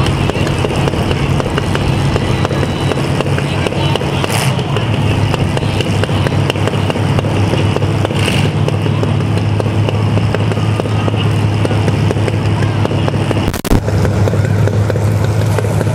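Demolition derby car engines running steadily, with two short bursts of noise partway through and a sharp bang near the end.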